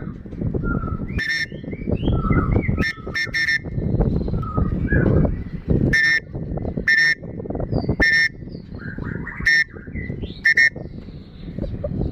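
Hunting dogs yelping in pursuit: short, sharp high yelps, singly and in quick runs of two or three, over heavy rustling and movement noise.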